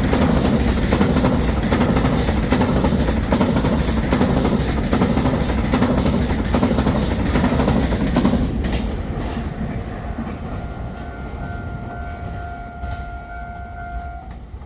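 A train passing close by at speed, its wheels clattering over the rail joints, then fading away after about eight seconds. As it fades, a faint steady high tone sounds.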